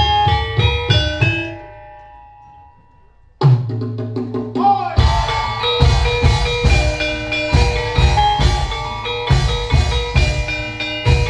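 Javanese gamelan accompaniment for a kuda lumping horse dance: tuned metallophones and hand drums playing a rhythmic pattern that stops about two seconds in and dies away. About three and a half seconds in a single deep stroke rings on low, and shortly after the full ensemble starts again with steady drum beats under the ringing metal tones.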